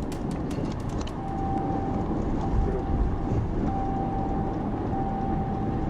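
Vehicle driving noise on a police cruiser's dashcam audio: a steady low road-and-engine rumble. A quick run of clicks comes in the first second, and from about a second in a steady high tone sounds in long stretches broken by short gaps.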